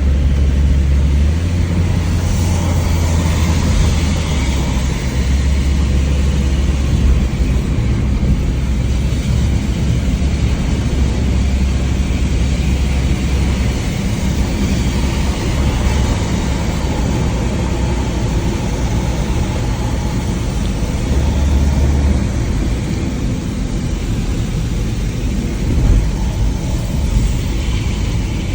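Mitsubishi Lancer driving in heavy rain: a steady low rumble of engine and road, with an even hiss of rain and tyre spray and wind buffeting the microphone.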